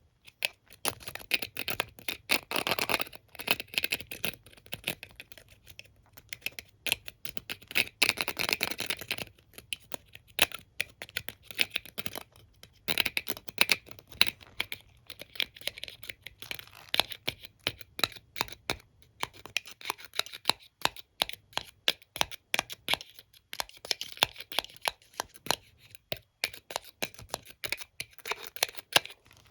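A hairbrush and comb handled close to the microphone: rapid taps and scratches on the bristles and teeth, with two longer brushing swishes a few seconds in and again around the eight-second mark.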